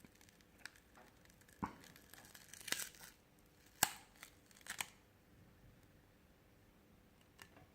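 Scattered light clicks and crackles of small plastic phone parts and a tool being handled while a smartphone is taken apart, about half a dozen in the first five seconds, then quiet.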